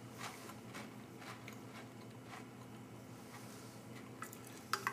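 Faint irregular crunching of a person chewing dry MRE vegetable crackers, with a few sharper clicks near the end.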